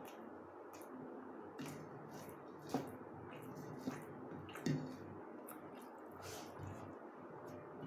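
Close-up eating sounds of rice with egg curry: soft wet squishing and chewing, with three sharper clicks around the middle.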